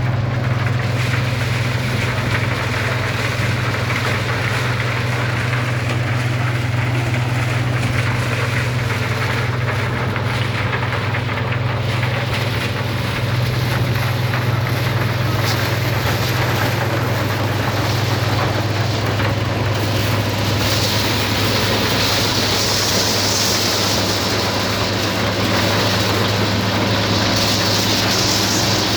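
Tractor engine running steadily while driving a maize shelling machine: a constant low drone mixed with the machine's clattering noise. A higher hiss joins about twenty seconds in.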